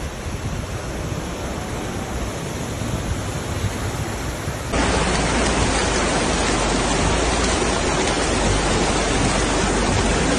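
Steady rushing water noise of the flood. About four and a half seconds in, it cuts abruptly to a louder, denser rush.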